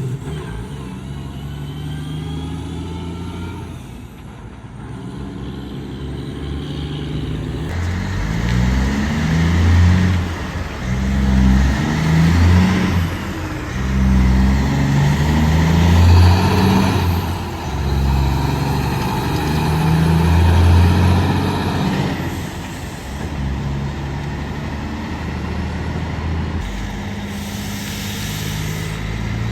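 Diesel semi truck engine pulling away and accelerating, its pitch climbing and dropping back several times as it shifts up through the gears, with a short hiss near the end.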